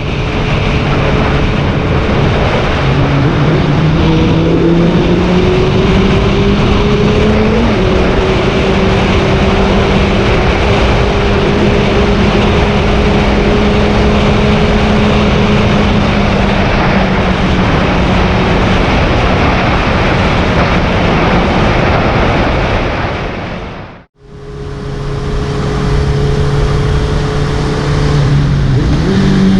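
2014 Honda CBR650F inline-four with an Arrow full-system exhaust, ridden: the engine note rises under acceleration, drops with a gear change about eight seconds in, then holds steady at cruise, with wind rushing over the camera mic. The sound cuts out suddenly about 24 seconds in and comes back with the engine pulling again, its pitch rising near the end.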